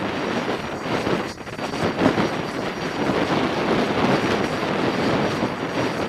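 Jet noise from a T-45 Goshawk's single Rolls-Royce Adour turbofan: a loud, steady rushing with a faint high whine.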